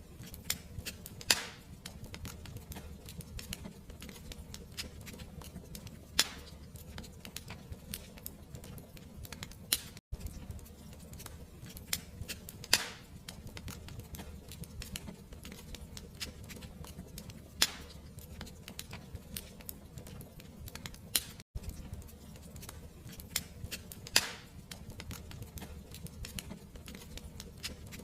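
Wood fire crackling: irregular sharp pops and snaps over a low, steady rumble, with a momentary dropout twice.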